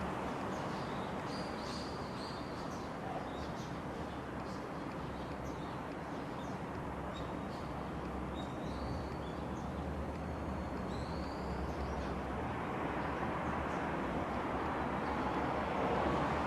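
Faint, scattered bird chirps and short whistles over a steady rushing background noise with a low rumble; the rushing grows louder near the end.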